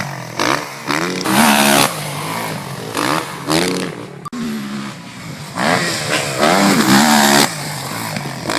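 Motocross bike engine revving in repeated throttle bursts, its pitch climbing and dropping with each one. It eases off briefly around the middle, then climbs through several quick rises in a row.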